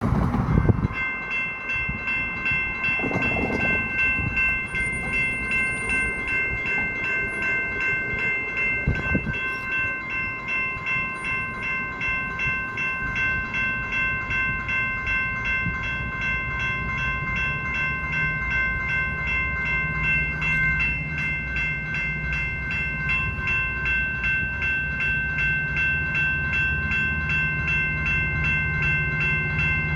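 Railroad crossing warning bells ringing steadily, about two strokes a second. In the second half a train's low rumble builds beneath them as it approaches the crossing.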